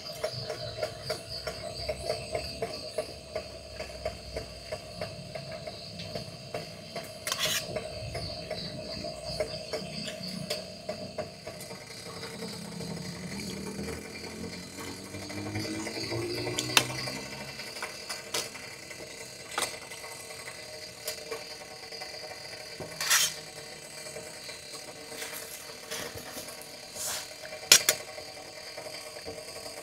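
Steady chirring of night insects, with scattered sharp clicks and knocks now and then, the loudest a few at a time in the second half.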